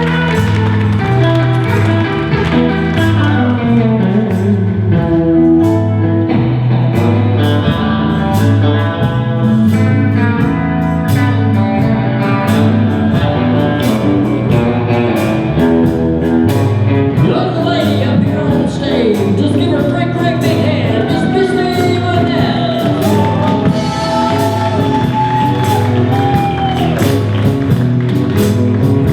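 Lead guitar solo over a live band, with bending, gliding notes above a steady repeating bass line and drums.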